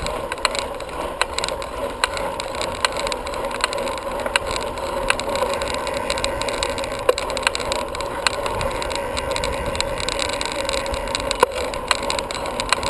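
Bicycle riding along a trail: steady rolling noise from the tyres and drivetrain, with frequent sharp clicks and rattles scattered throughout.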